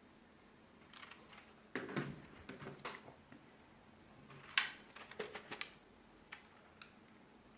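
Typing on a wireless office keyboard: irregular clusters of key presses, with a sharper burst about four and a half seconds in.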